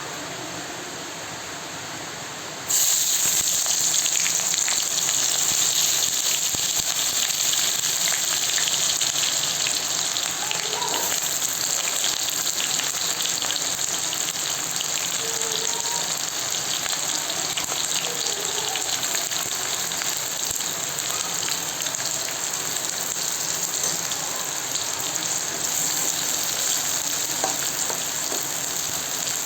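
Food frying in hot oil in a cooking pan, a steady sizzle that jumps suddenly louder about three seconds in.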